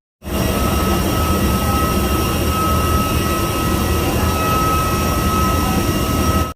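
Steady aircraft engine noise heard from inside an airliner cabin: an even rushing drone with a constant high whine over it.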